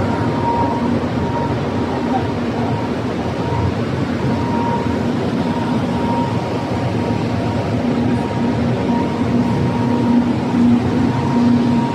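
Glass-processing factory machinery running: a steady, even noise with a faint steady whine and a lower hum that grows stronger near the end.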